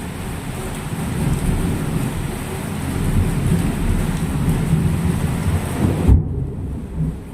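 Heavy rain pouring, with a heavy low rumble underneath. The higher hiss of the rain drops away sharply about six seconds in.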